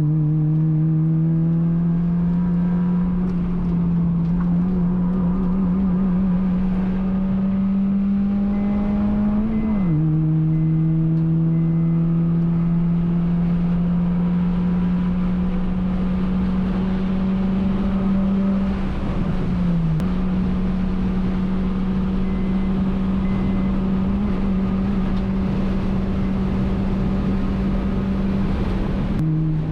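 Honda Fit GD3's 1.5-litre four-cylinder engine pulling under load on track. Its pitch climbs slowly through a gear and drops sharply at an upshift about ten seconds in, then climbs again with a brief dip near twenty seconds.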